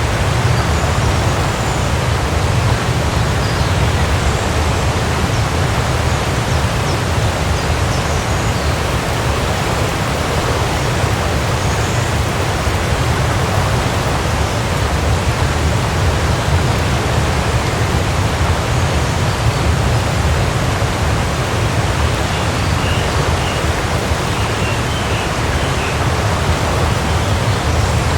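Waterfall: water falling and rushing in a steady, unbroken noise, heaviest in the low end.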